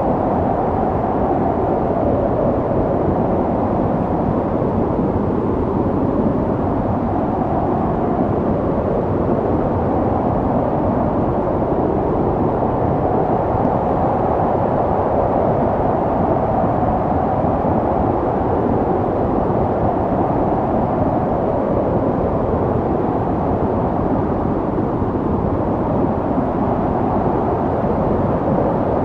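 Snow storm wind: a steady low rushing that swells and eases slowly.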